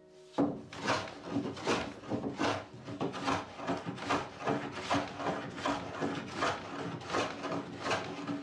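A hand tool rubbing across the wood of a door in steady back-and-forth strokes, a little more than one stroke a second.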